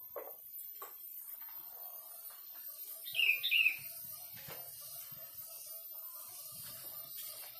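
A small bird chirps twice in quick succession about three seconds in, with a few faint knocks and clicks of tools being handled around it.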